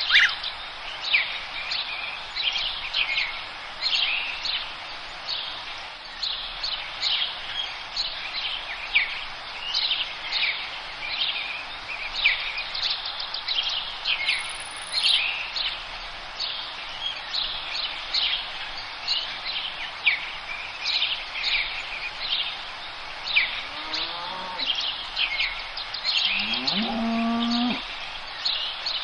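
Forest birds singing, many short chirps overlapping throughout. Near the end a low, drawn-out animal call rises and then holds for a second or so.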